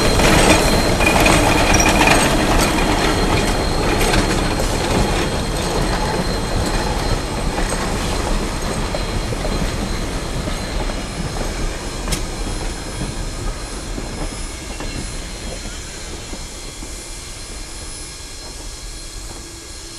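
A steam-hauled train's tender, log car and wooden caboose rolling past on the rails, wheels clattering with a thin high squeal. The sound fades steadily as the train moves away, and a faint low steady tone comes in near the end.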